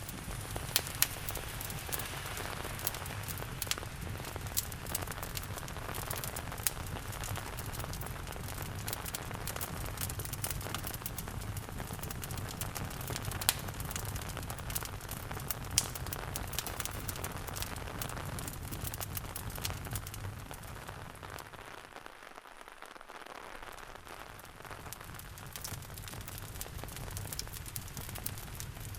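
Steady rain mixed with a wood fire crackling in a fireplace, with sharp pops scattered throughout. About two-thirds of the way through, the deep part of the sound drops out and it goes quieter for a few seconds, then returns.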